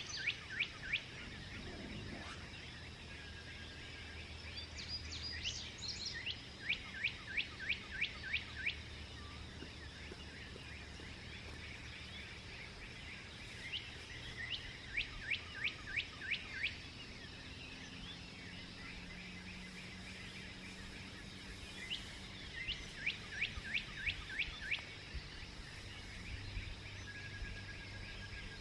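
A songbird singing a repeated phrase of about ten quick down-slurred notes, each phrase about two seconds long and coming back roughly every eight seconds. Under it runs a steady low background rumble.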